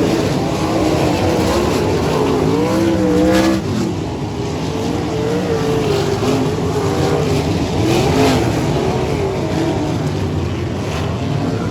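Several dirt-track sprint car V8 engines racing together, their overlapping tones rising and falling as the cars lap, with one engine dropping off sharply about three and a half seconds in.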